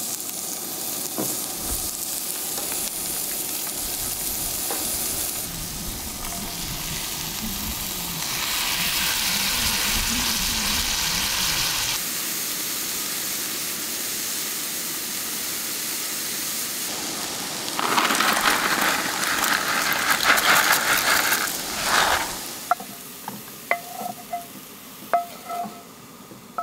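Sliced sausage and mushrooms sizzling in a cast iron skillet on a camp stove, stirred and pushed around the pan. In the middle it gets louder with a run of scrapes. Near the end it turns quieter, with a few short clinks as a wooden spoon scrapes the food out of the skillet into a bowl.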